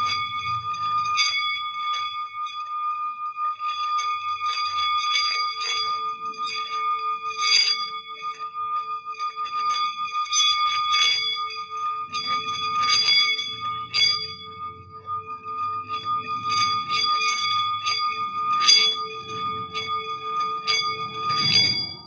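Sound-healing instruments: a singing bowl holds a steady ringing tone with a lower wavering tone beneath, while small bells are struck again and again, often several in quick succession, each strike ringing on.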